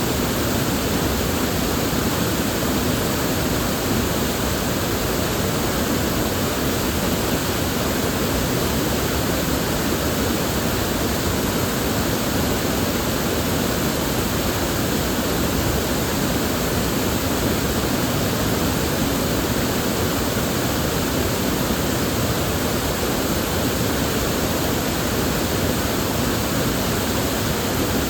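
River water flowing steadily: an even, unbroken rush with no splashes, calls or other events.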